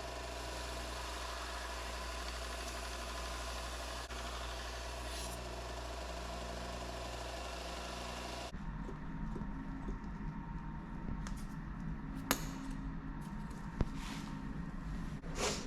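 Belt sander running steadily. About halfway through, the sound changes abruptly to a rougher, lower hum with scattered sharp clicks and scrapes.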